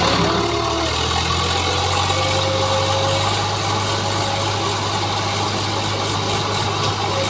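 Diesel tractor engine running steadily at idle with a deep, even hum.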